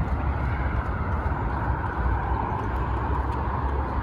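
Steady drone of highway traffic, with a deep rumble underneath.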